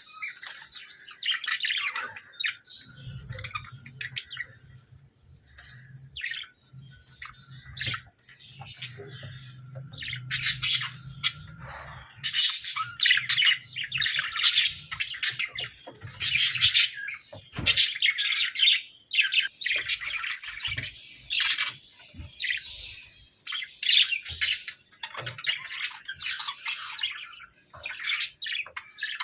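Budgerigars chirping and chattering, many short high calls overlapping continuously.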